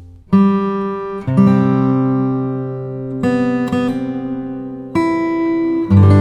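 Background music: acoustic guitar strumming slow chords, a new chord about every one to two seconds, each left ringing.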